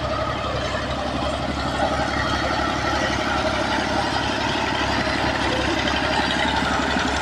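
Diesel tractor engine running steadily, with an even, fast firing rhythm.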